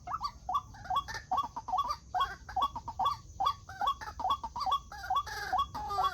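White-breasted waterhen calling, a fast run of short rising notes repeated two or three times a second.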